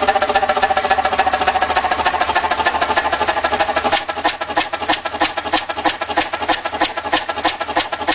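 Old engine running with a rapid, even clicking beat. A whine over it slides down in pitch and fades out about halfway through, leaving the clicking alone.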